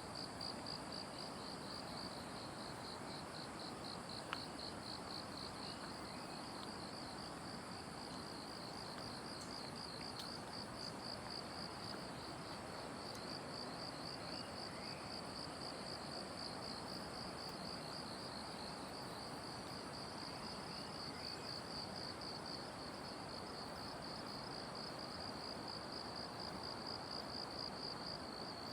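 An insect trilling steadily in a high, continuous pulsing buzz, over a steady background hiss. There are a few faint bird chirps and one sharp click about four seconds in.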